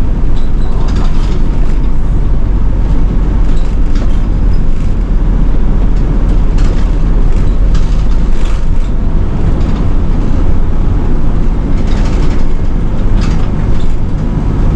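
Nishitetsu city bus running, heard from inside the cabin: a steady low drone of engine and road noise, with short rattles and clicks from the bus body now and then.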